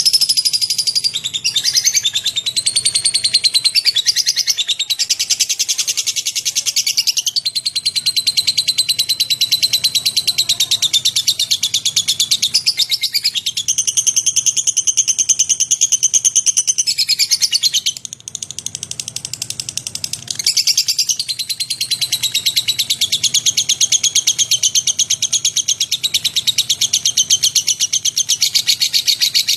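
Lovebird singing a long, fast, high-pitched chattering trill that runs almost without a break, briefly weaker about eighteen seconds in before it picks up again.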